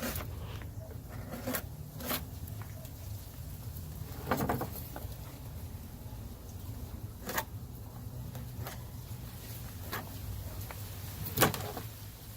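Short, scattered knocks and scrapes, about six in all and the loudest near the end, from hand tools and filler being worked while Super Bond paste is packed into a damaged fiberglass hull area. A steady low hum runs underneath.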